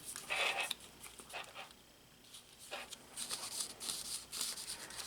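Paper tags and journal pages handled and rustling in short bursts, busier in the second half.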